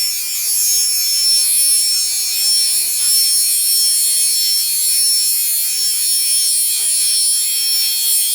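A dense, steady high-pitched whine with several held tones layered over a hiss: a recording of unexplained sounds, sped up and pitch-shifted to test whether they are birds chirping.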